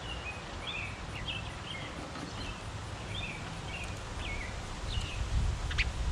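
Small backyard birds chirping, many short repeated chirps in quick succession, over a low rumble that grows louder near the end.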